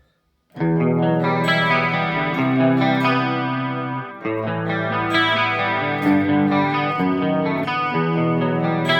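Electric guitar played through a chorus pedal: ringing, sustained chords that come in about half a second in after silence, with new chords struck a few times after that.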